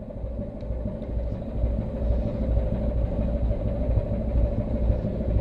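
Ship under way: a steady low engine drone and rumble, growing louder over the first couple of seconds and then holding.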